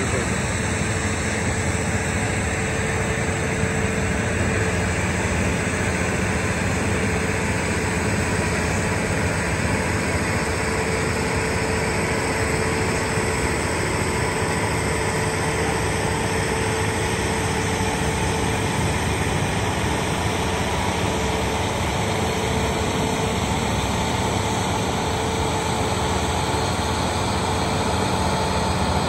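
A cog railway train moving slowly alongside the platform, giving a steady mechanical running sound with a held tone.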